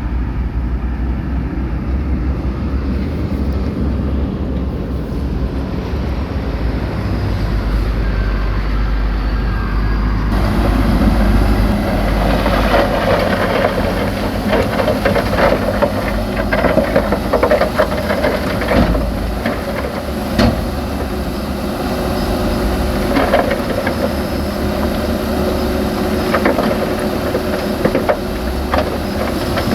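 Heavy diesel earth-moving machinery working, with a deep, steady engine rumble. About ten seconds in, the sound changes abruptly to louder mechanical clatter with scattered knocks over the running engine.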